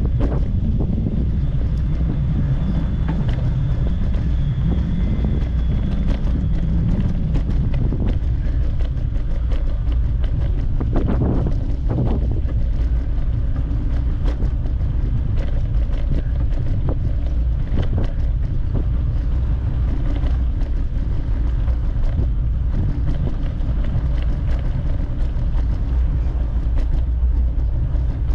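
Steady wind rumble on the microphone from riding a bicycle, with a few brief knocks and rattles around the middle.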